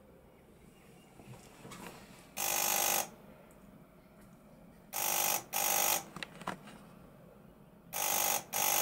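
Internal buzzer of a 1960s Australian Ericofon ringing in short rasping bursts, more like a knocker than a buzzer. There is a single burst about two and a half seconds in, then two quick pairs of bursts, near five and near eight seconds. It is working again after its spring was retensioned.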